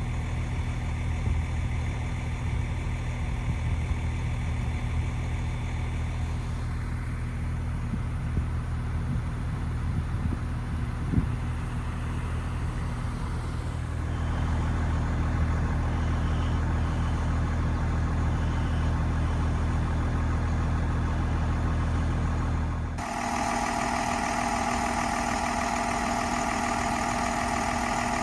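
Motor vehicle engine idling steadily, with no speech. The sound changes abruptly twice: about halfway through, and again near the end, when the deep hum gives way to a higher steady drone.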